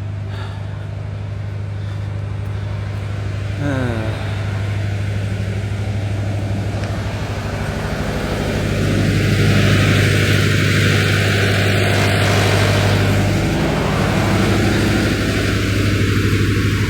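A vehicle engine running steadily with a low hum, getting louder about halfway through.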